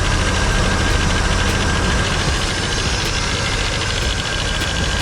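1989 GMC Sierra pickup's engine idling steadily, with a thin high whine running over it that the owner takes for a loose pulley on the belt drive.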